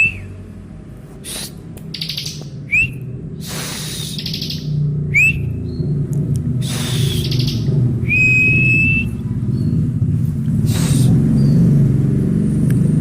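Bar-winged prinia (ciblek) calling: short sharp rising whistled notes every couple of seconds and one longer level whistle about eight seconds in, mixed with buzzy rasping notes. A steady low hum runs underneath.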